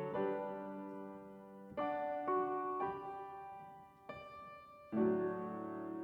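Piano playing slow chords, each struck and left to fade before the next.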